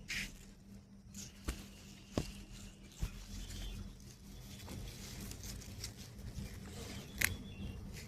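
Rustling of capsicum plants being handled, broken by a few sharp snaps or clicks, the loudest near the end, as peppers are picked.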